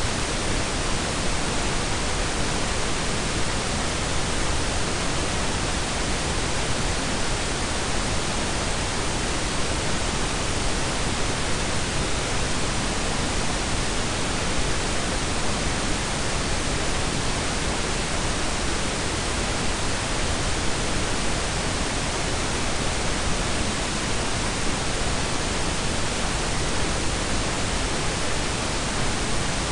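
Steady synthetic pink and brown noise blended together: an even, unchanging hiss with a deep rumble underneath.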